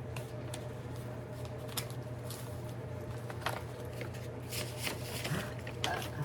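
Scattered light clicks and rustling from objects being handled, over a steady low hum.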